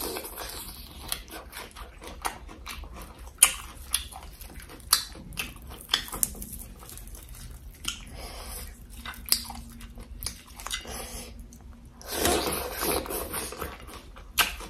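Close-miked chewing of papaya salad with raw water spinach: wet mouth sounds broken by sharp, crisp crunches about once a second, and a louder stretch of chewing near the end.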